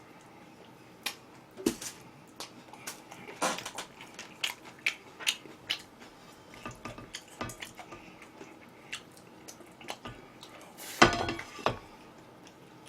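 Eating sounds: scattered sharp clicks and taps of utensils against dishes, mixed with chewing, with a louder clatter about eleven seconds in.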